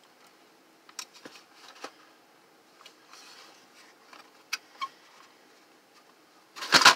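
Scattered light clicks and knocks of a space heater's plastic housing and parts being handled during disassembly, with a louder clattering scrape near the end.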